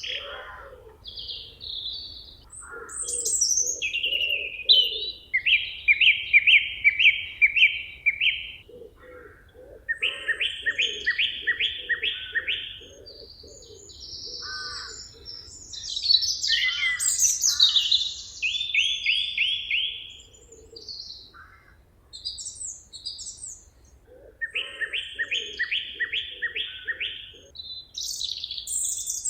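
Several songbirds singing. One bird repeats a phrase of fast, evenly spaced notes every few seconds, with other chirps and whistles between the phrases.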